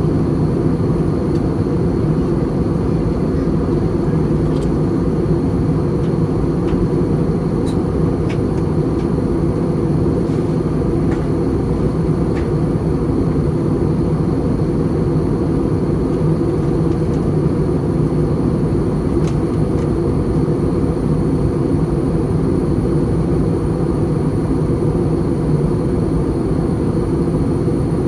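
Steady in-flight cabin noise of an Airbus A320 in descent: a constant rush of engine and airflow, heaviest in the low range, with a faint high whine above it.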